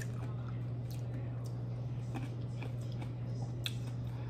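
Close-up mouth sounds of chewing a green grape: wet squishing and small clicks and smacks, over a steady low hum.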